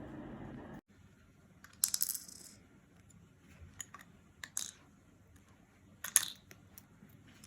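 Small metallic jingling and clicking in three short bright bursts, about two seconds apart, with lighter clicks in between, like a small metal toy or bell being jostled.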